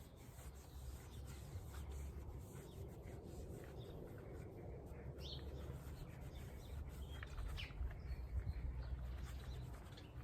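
Small birds chirping with short, scattered calls over a low, steady rumble.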